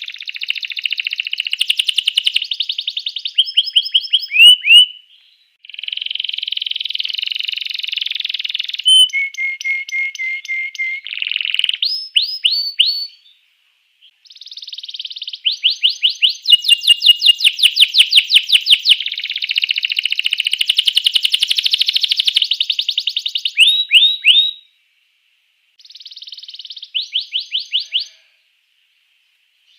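Domestic canary in full song: long, fast trills and rapid runs of repeated chirps, with a few short pauses between phrases.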